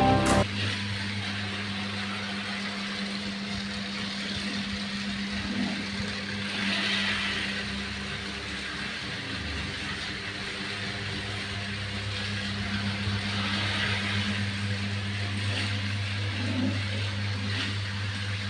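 Small battery-powered toy truck running along its track, its electric motor giving a steady hum with the rattle of the wheels.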